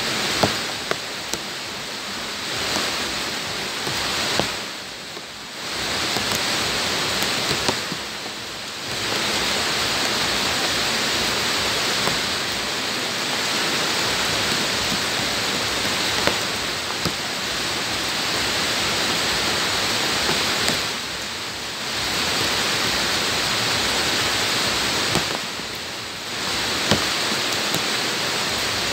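Heavy rain falling steadily on open ground: a dense hiss with scattered sharp ticks of close drops. It eases briefly four times, about five, eight, twenty-one and twenty-six seconds in.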